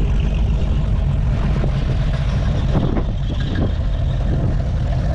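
Classic American car engines running with a steady low rumble.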